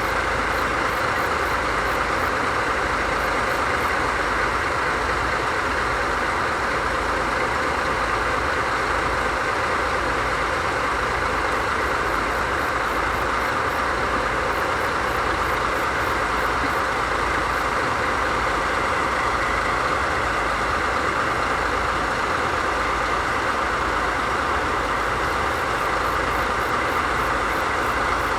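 DD51 diesel-hydraulic locomotive's diesel engine idling steadily, with no change in engine speed.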